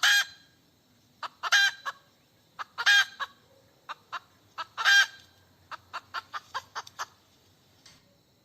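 Hen cackling: short clucks broken by loud, drawn-out squawks about every one and a half to two seconds, then a quick run of short clucks near the end.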